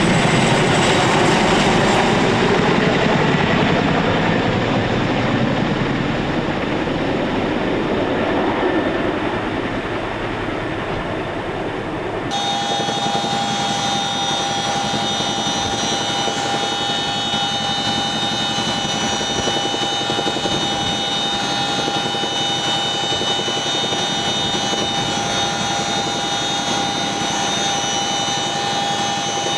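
Boeing CH-47 Chinook twin-rotor helicopter: loud rotor and engine noise that shifts in pitch as the aircraft moves. After an abrupt cut about twelve seconds in, the sound changes to a steady turbine whine with several high, steady tones.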